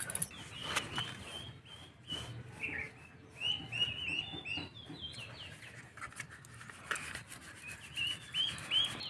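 Small birds chirping in quick runs of short rising notes, three runs in all, over soft knocks and rubbing.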